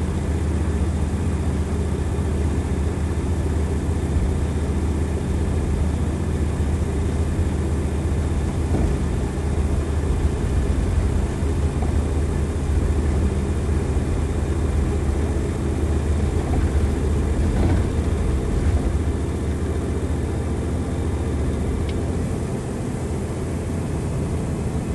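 Nissan Diesel FE92TA turbocharged diesel bus engine running under way at high revs, a steady low engine drone heard from inside the bus. The level eases off slightly near the end.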